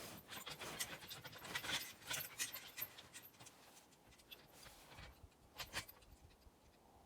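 A man breathing hard from exertion, with irregular crunching and scuffing as he works in deep snow. The sounds come in uneven clusters and thin out near the end.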